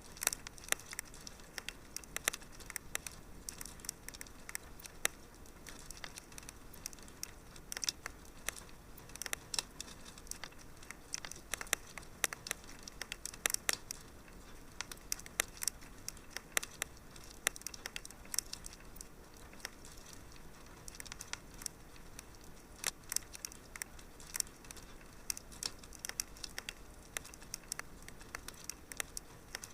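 Fire crackling in a fireplace: irregular sharp pops and snaps, several a second and some louder than others, over a soft steady hiss.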